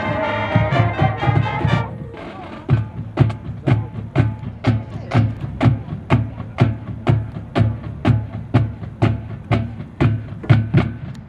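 Marching band playing: the brass holds a loud chord over the drums, cutting off about two seconds in. Then the percussion carries on alone with sharp hits and bass drum thumps in a steady beat, about two to three a second.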